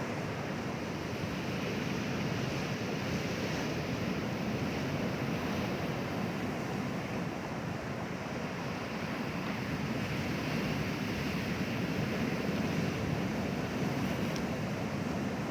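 Sea waves washing onto a shore: a steady rush of surf that swells and eases gently.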